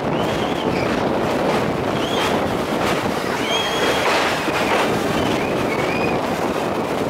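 Steady rushing noise of a passenger train running over a steel sea bridge, mixed with wind buffeting the microphone at the open carriage window. Several short high squeals come and go throughout.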